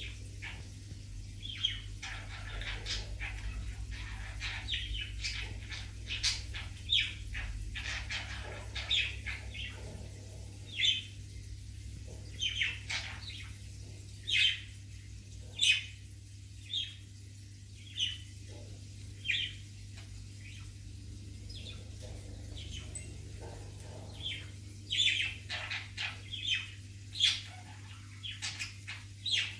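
A small bird chirping in short, sharp calls about once a second, some dropping in pitch, over a steady low hum.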